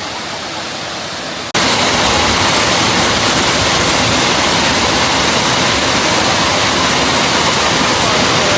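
Waterfall water rushing in a steady roar, jumping abruptly louder about a second and a half in.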